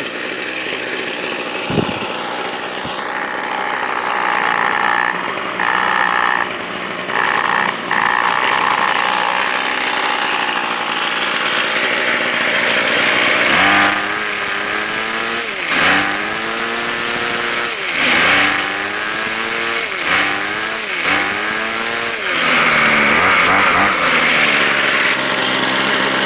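Gas string trimmer's small two-stroke engine running just after a hard start on fuel left in it over the winter. About halfway through it is revved up and let back down about five times in quick succession.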